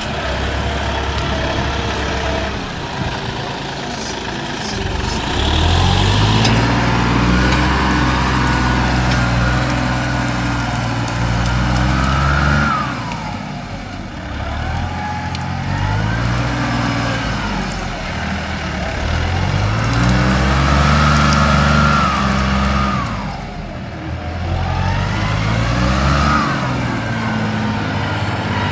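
Big tractor's engine working under load while ploughing and clearing brush. Its speed rises and falls again and again, about five surges, over a rough grinding noise.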